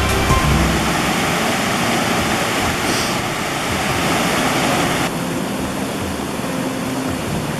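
Rushing water, a steady hiss that turns softer and duller abruptly about five seconds in.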